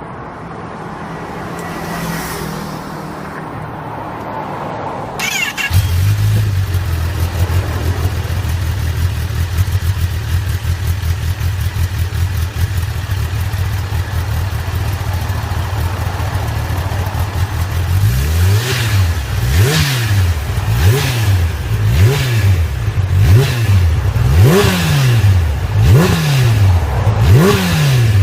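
Kawasaki Ninja ZX-10R inline-four exhaust through a Yoshimura R-11Sq Cyclone stainless slip-on muffler: the engine starts about five seconds in and idles steadily, then from about two-thirds of the way through it is blipped repeatedly, the revs rising and falling about once a second.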